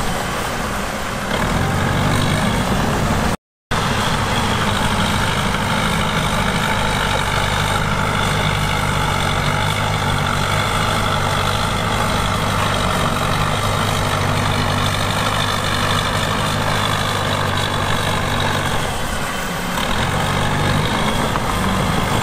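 Heavy diesel engine of earthmoving equipment running steadily, with its note dipping briefly a couple of times. The sound cuts out for a moment about three and a half seconds in.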